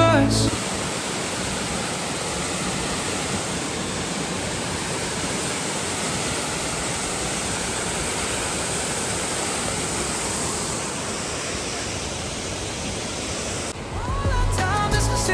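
Steady rush of a mountain waterfall: an even, unbroken roar of falling water. Music cuts out just after the start and fades back in near the end.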